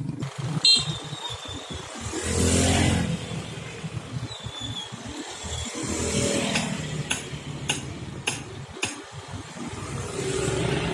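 Road traffic with motorcycles and cars passing, one loud pass about two to three seconds in and another building near the end, with a few sharp clicks in between.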